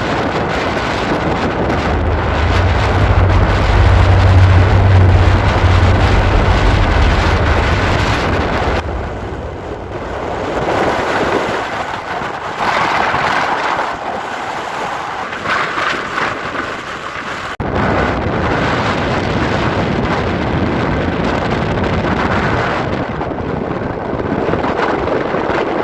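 Strong wind blowing and buffeting the microphone, a loud, steady rush of noise with a heavy low rumble from gusts hitting the mic between about two and eight seconds in.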